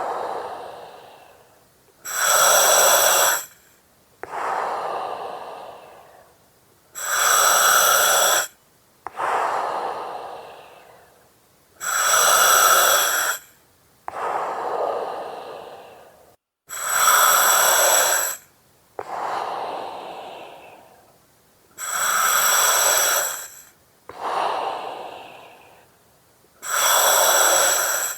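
Slow, regular breathing through an oxygen mask with the regulator hissing. About every five seconds a loud hissing breath of a second and a half, with a whistling edge, alternates with a softer breath that fades away.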